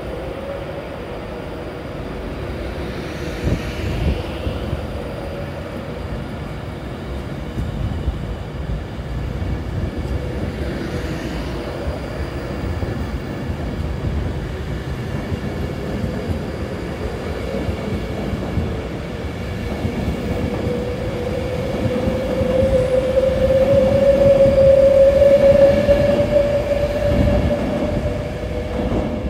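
A train running through a station, with a low rumble and a humming motor tone that rises slightly in pitch and grows loudest late on, then eases off.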